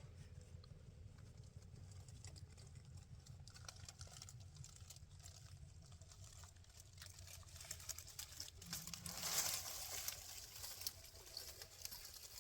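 Faint water trickling and pattering at a waterfall, with a low rumble under it and a brief louder rush of noise about nine seconds in.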